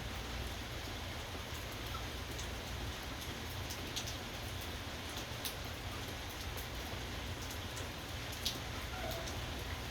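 Steady rainfall with individual drops ticking onto a surface, a few sharper drips standing out about four seconds in and again near the end, over a steady low rumble.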